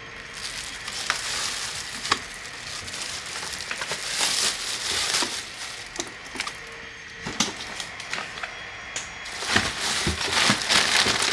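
Packaging rustling and crinkling, with scattered knocks and clicks, as the parts of a pressure washer kit are unpacked and handled; it grows busier and louder near the end.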